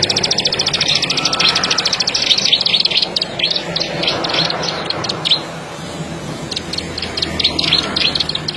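Ciblek sawah (a rice-field prinia) singing a fast, dry, clicking trill of rapid repeated notes. It breaks off for about a second past the middle, then starts again.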